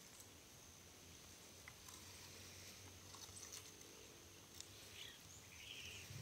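Near silence: faint rural background with a thin steady high tone and a few faint scattered ticks.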